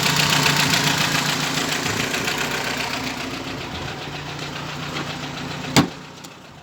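UMZ-4216 four-cylinder petrol engine idling with a regular knock, which the mechanic takes for a worn camshaft timing gear. It grows gradually quieter, and a sharp click comes near the end.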